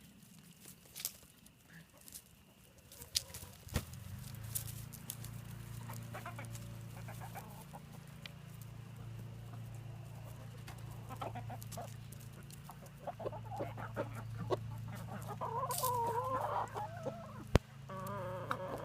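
Backyard hens clucking and calling as they scramble over a scrap of food, with scattered sharp ticks. A steady low hum comes in about four seconds in. A run of louder squawking calls comes near the end, along with one sharp click.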